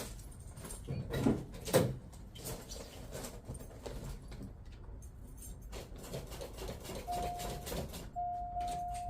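Clicks, knocks and keys jangling in the 1985 Oldsmobile Cutlass 442 as it is readied for a cold start, with two louder thumps early on. From about seven seconds in a steady single-pitched tone sounds once the ignition is on, before the engine is cranked.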